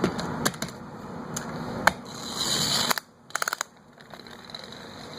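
A small pull-back toy car being handled with sharp plastic clicks and taps, then its wind-up spring motor whirring for about a second as it is let go and runs, followed by a quick run of small clicks.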